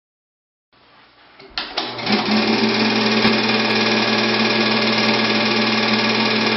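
Title-card sound effect: after a moment of silence an electric buzzing hum swells in over the first two seconds, then holds loud and steady with faint crackles on top.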